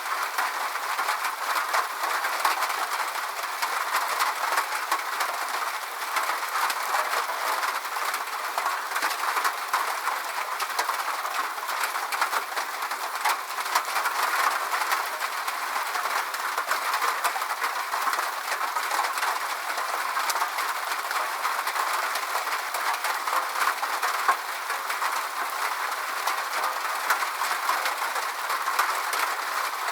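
Steady rain, an even hiss with a dense patter of fine drops and no low rumble.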